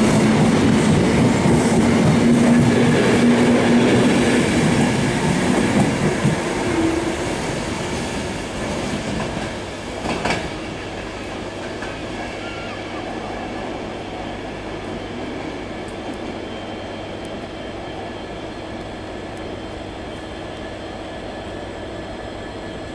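Greater Anglia passenger coaches rolling past at low speed, wheels clicking over the rail joints, with a steady low tone through the first six seconds. The noise fades as the train draws away, a single sharp knock comes about ten seconds in, and a steady quieter hum remains.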